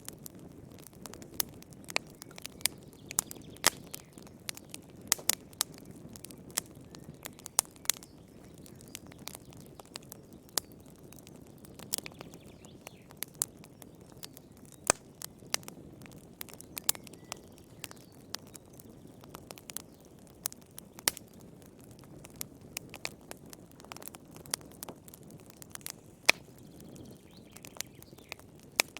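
Wood fire in a fireplace crackling, with irregular sharp pops and snaps over a soft low rumble of flames.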